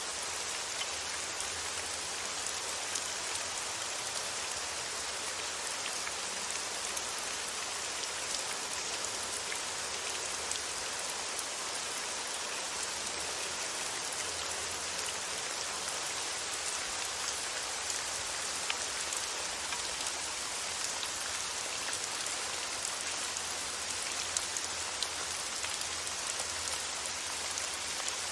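Steady rain falling: an even hiss with a constant light patter of drops.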